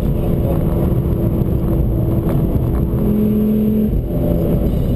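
Ford Focus RS engine and road noise at speed, heard inside the cabin, running at a nearly steady pitch under a dense low rumble; an extra low engine tone holds for about a second around three seconds in.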